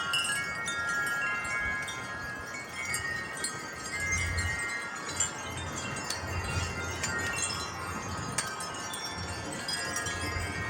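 Several wind chimes ringing continuously in a strong gust: many overlapping struck tones that keep sounding and fading. A low wind rumble comes and goes underneath.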